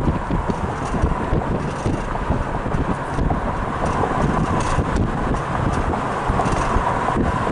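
Wind rumbling and buffeting on the microphone over the steady noise of a car.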